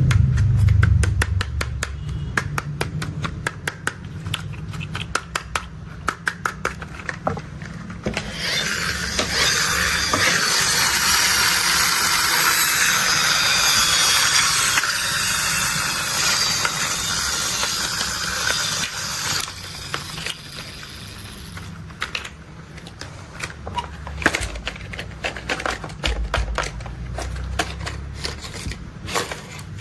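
Plastic toy construction vehicles being handled: quick runs of sharp clicks for the first several seconds, then a dense rustling noise lasting about eleven seconds, then more scattered clicks, with a low rumble underneath at times.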